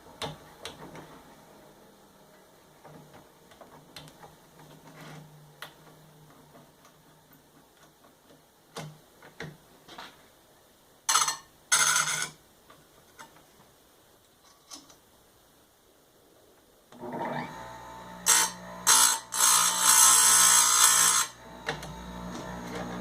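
Electric bench chainsaw chain grinder. For most of the time there are only small clicks, with two brief grinding bursts about halfway through. Then the motor starts and runs with a steady hum, and the wheel grinds in several short, hissing bursts as it sharpens the cutters.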